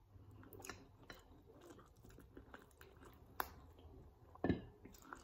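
A person chewing chicken close to the microphone: faint wet mouth clicks and smacks, with one sharp click a little past three seconds and a louder smack at about four and a half seconds.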